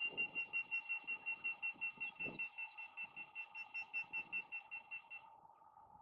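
A bird calling a rapid series of high, evenly spaced notes, about five a second, stopping about five seconds in.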